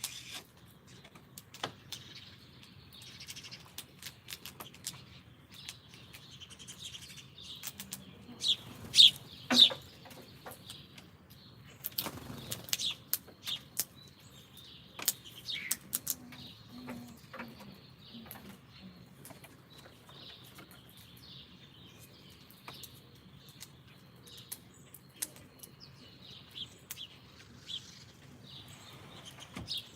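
Small birds chirping with short high calls at a backyard feeder, with wing flutters. A few loud, sharp clacks about nine seconds in and more scattered ticks a few seconds later.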